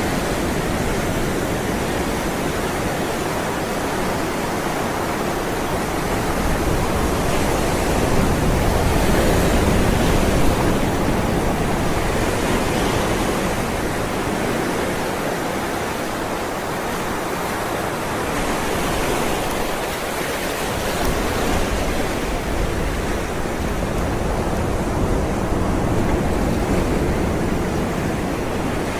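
Ocean waves rolling and breaking onto shore in a continuous wash of surf that swells and eases slowly, with the biggest surge about a third of the way in.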